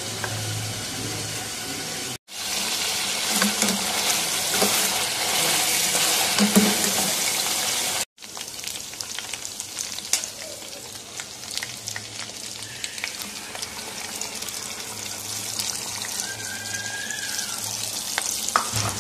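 Chicken pieces frying in hot oil in an aluminium pot: a loud, dense sizzle, then after a cut a quieter sizzle with scattered pops.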